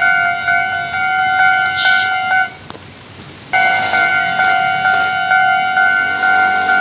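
Railway level-crossing warning bell ringing, a repeated two-tone ding at about two strikes a second. It cuts out for about a second midway, then resumes.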